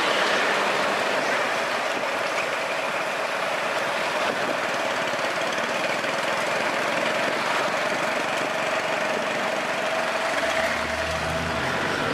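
A vehicle engine running steadily under constant outdoor noise.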